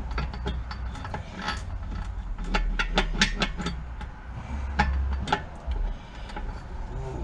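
Metal clicks, clinks and knocks of engine parts and tools being handled while a Briggs & Stratton 12 hp engine is taken apart, with a quick cluster of clicks a few seconds in.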